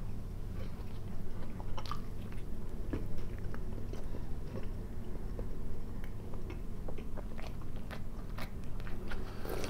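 Close-up chewing of a big bite of cooked-smoked sausage: many small wet mouth clicks and smacks. Near the end there is a sip of hot tea.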